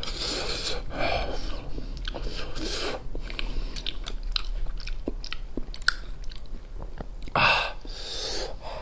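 Close-miked mouth sounds of a man chewing soft, spicy pig's brain: wet smacks and clicks of lips and tongue, with a louder breathy burst about seven and a half seconds in.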